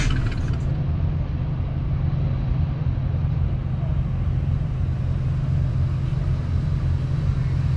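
Car engine idling steadily, a constant low tone.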